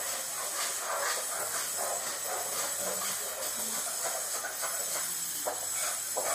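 Sandpaper rubbed by hand over wood in quick back-and-forth strokes, a rhythmic rasping hiss at about two strokes a second.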